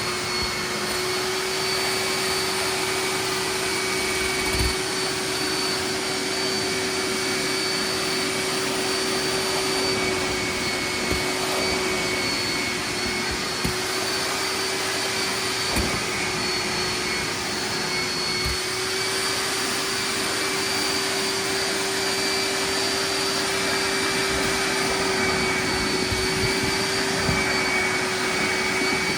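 Hoover wet/dry vac running steadily, its motor giving a constant whine over the rush of air, set up for wet pickup of water from a soaked rug. A few faint knocks come through along the way.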